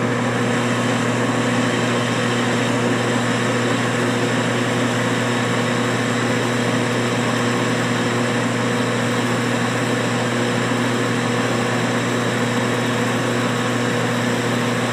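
Metal lathe running steadily at about 300 RPM, its motor humming evenly, while a high-speed steel tool bit takes a dry 15-thousandths finishing cut in mild steel.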